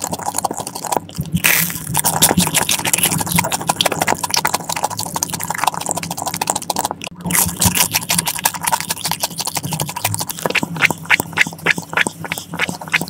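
Close-miked, wet, crackly chewing of a crispy sauce-topped Korean hot dog. Near the end comes sucking on a juice-box straw, heard as a quick, regular run of gulps at about four a second.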